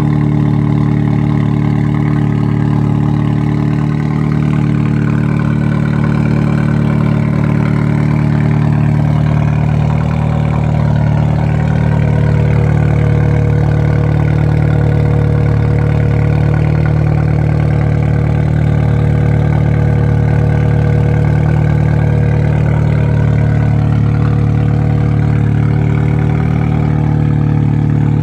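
Opel Corsa OPC's turbocharged four-cylinder engine idling steadily, heard through its exhaust.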